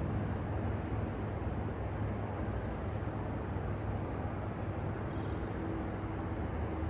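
Steady low outdoor rumble with no distinct events, and a faint steady hum joining about five seconds in.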